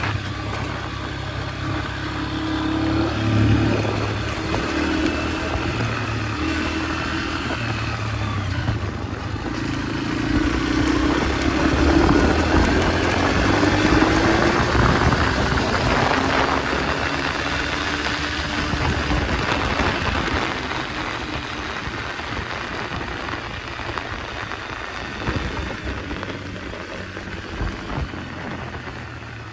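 Yamaha dirt bike engine running on changing throttle, its pitch rising and falling. It grows quieter over the last few seconds.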